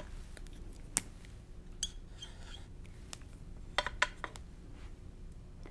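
Faint, scattered light clicks and taps, a handful of separate ones with a small cluster a little before the middle, over a quiet room hum.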